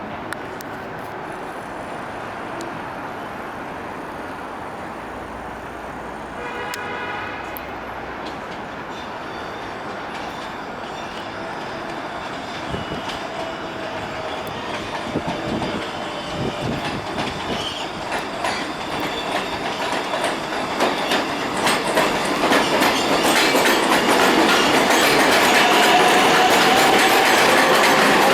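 An R188 subway train on the elevated IRT Flushing Line approaches and runs through the station without stopping, growing steadily louder, its wheels clattering rapidly over the rail joints as it nears and passes. A brief pitched tone sounds about seven seconds in.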